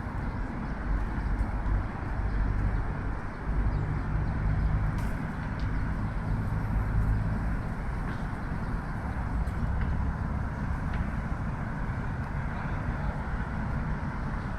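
Steady rumble of road traffic, heaviest in the low end, with a few faint clicks over it.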